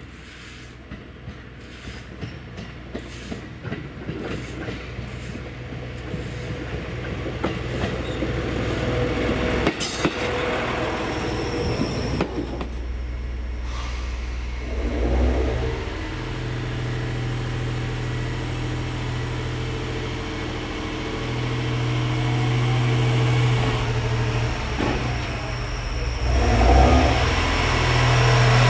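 JR East GV-E400 diesel-electric railcar rolling slowly over the station tracks, its wheels clicking at an even pace as it draws nearer. After a break, its diesel engine runs steadily, stepping up in level twice, and grows loud as the railcar pulls away past the platform.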